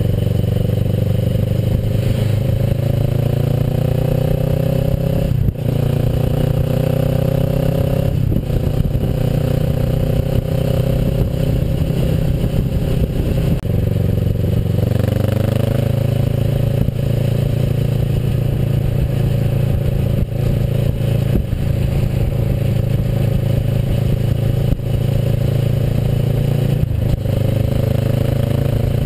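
Kawasaki Versys motorcycle engine under way, climbing in pitch as the bike accelerates. It breaks off briefly for gear changes about five and a half and eight seconds in, then settles to a steady run and climbs again near the end. A steady low rumble runs underneath.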